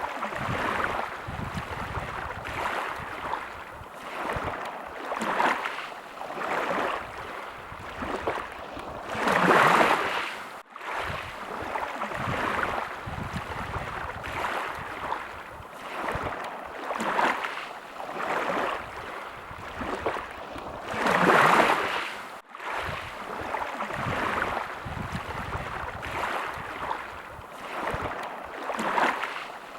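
Small waves lapping and washing against the shore in regular swells every second or two, with two bigger surges, one near the middle and one about two thirds of the way in.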